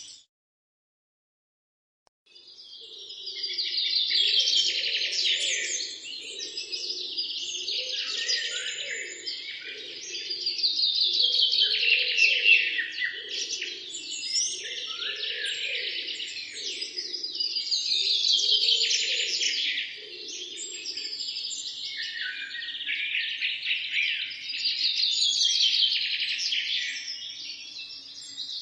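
Dense chorus of many birds chirping and trilling together, fading in after about two seconds of complete silence and swelling and easing in waves every several seconds. A fainter, lower pulsing chatter runs underneath for most of it.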